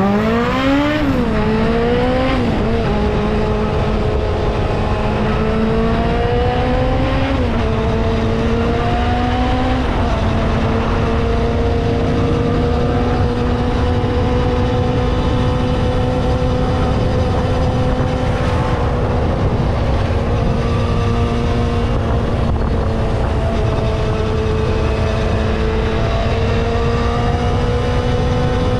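A vehicle engine accelerating through about four gear changes, its pitch climbing and dropping back with each shift, then cruising at a steady speed with constant wind and road noise.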